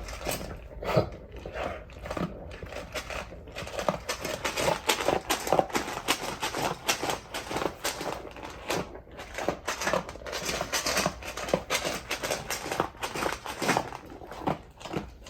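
Large dog eating from a raised bowl: a fast, irregular run of crunching and clicking as it chews and picks up its food.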